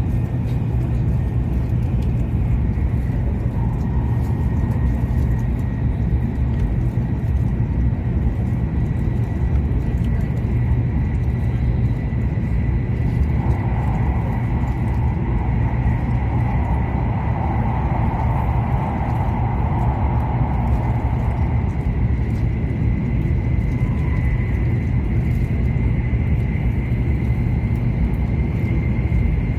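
Running noise of an E7-series Shinkansen heard inside the passenger cabin at speed: a steady low rumble with a faint steady whine over it. For several seconds around the middle, a higher hissing layer grows louder, then falls back.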